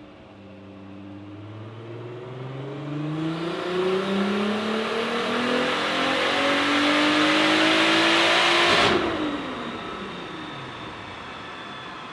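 Single-turbo Volkswagen R32's VR6 engine making a full-throttle dyno pull, its pitch rising steadily for about nine seconds as a loud rushing noise builds in from about three seconds. The throttle is then cut suddenly and the revs fall away.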